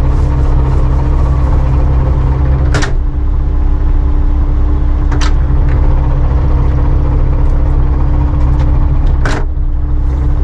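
Boat engine running at a steady drone, with three sharp knocks spread through.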